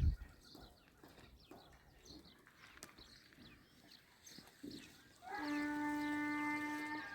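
Faint scattered bird chirps and small knocks, then about five seconds in a long, steady, even-pitched call from a farm animal that lasts nearly two seconds.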